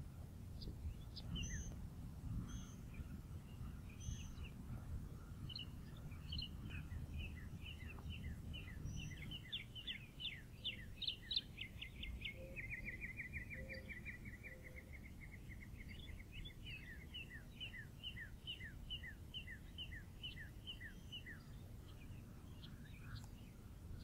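Outdoor ambience of songbirds chirping. One bird sings a long series of quick repeated notes that runs into a rapid, even trill about halfway through, over a low steady background rumble.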